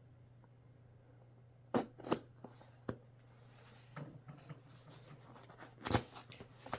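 Swaddle-blanket packaging being handled, giving a string of sharp crackles and rustles after a quiet start, over a faint steady low hum.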